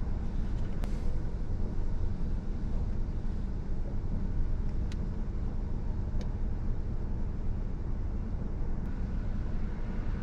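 Steady low rumble of a car heard from inside the cabin, with a few faint sharp clicks scattered through it.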